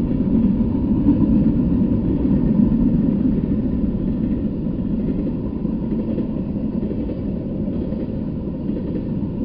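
Freight train rolling past: a steady low rumble of the cars' wheels on the rails, easing slightly toward the end.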